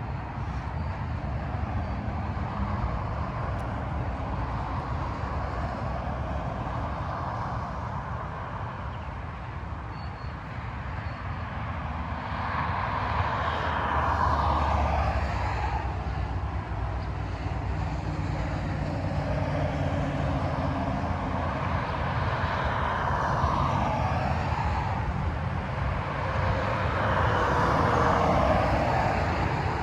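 Freeway traffic passing at highway speed: a steady rush of tyre and engine noise that swells and fades several times as vehicles go by, the loudest passes about halfway through and near the end.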